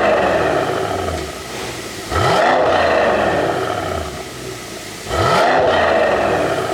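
Mercedes-AMG E63 4Matic+'s twin-turbo V8 being free-revved over and over, a blip about every three seconds. Each time the revs shoot up quickly, hang briefly, then fall away. Between blips the exhaust crackles and pops on the overrun, the sound of a pop-and-crackle exhaust tune.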